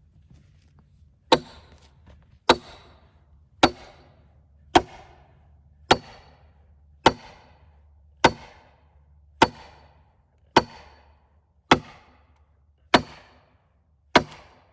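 A hammer driving a steel wedge into a cedar log to split a rail: twelve hard, even strikes about one a second, each with a short metallic ring.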